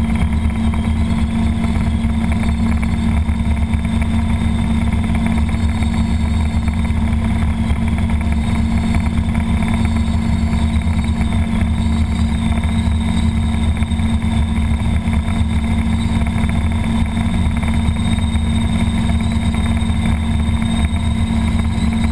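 Robinson R22 helicopter's four-cylinder Lycoming piston engine and rotors running steadily, with a thin, high, steady tone over the low drone.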